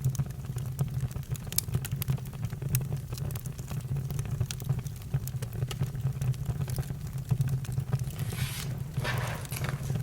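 Campfire crackling: a steady low rumble of flames with frequent sharp pops and snaps, and a brief hiss a little over eight seconds in.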